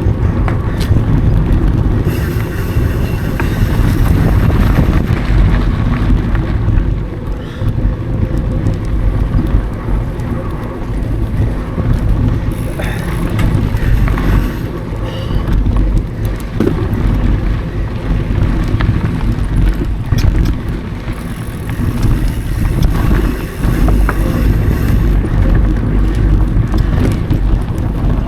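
Mountain bike rolling over dry dirt singletrack, heard from an action camera on the move: a steady low rumble of tyres on the trail and wind on the microphone, with scattered clicks and knocks from the bike.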